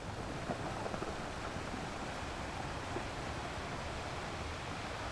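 Ocean waves washing onto a shore: a steady rush of surf, with a few small splashes about a second in.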